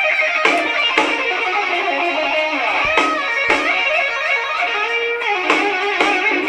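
Rock music in an instrumental passage, led by electric guitar playing quick lead lines.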